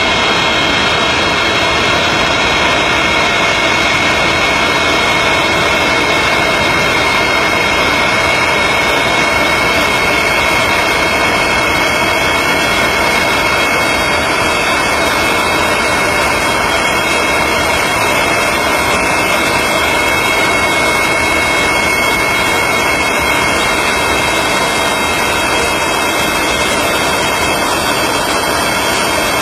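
Antonov An-225 Mriya's six Progress D-18T turbofan engines running steadily: an even, loud rush of jet noise with a high, steady whine over it.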